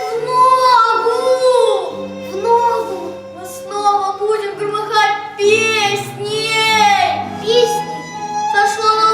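Children's voices singing a song with instrumental accompaniment; held low notes come in about two seconds in.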